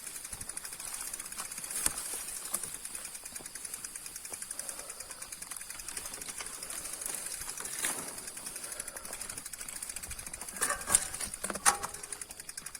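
Bicycle rear freewheel hub ticking rapidly and evenly as the wheel turns without pedalling, with a few sharper knocks and rattles, the loudest around eleven seconds in.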